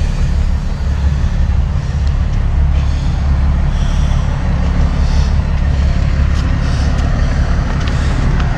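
Heavy diesel truck engine idling steadily, a constant low rumble.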